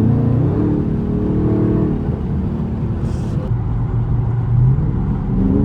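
Straight-piped Dodge Charger Scat Pack's 392 HEMI V8 exhaust under acceleration, rising in pitch near the start and again near the end, with steadier running between.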